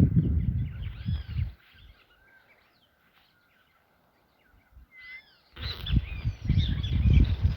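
Several wild birds chirping and calling in short, arched notes. Bursts of low rumbling noise sit under them in the first second or so and again from about two thirds of the way in.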